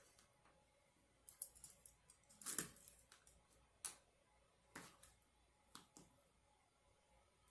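Close-miked eating sounds: scattered soft crackles and clicks of chewing and handling food, loudest about two and a half seconds in.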